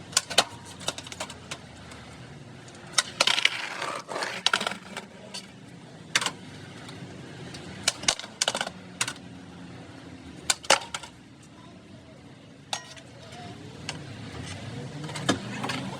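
Skateboards clacking on wet concrete: irregular sharp knocks of decks and wheels hitting the ground, with a quick clatter of several about three seconds in.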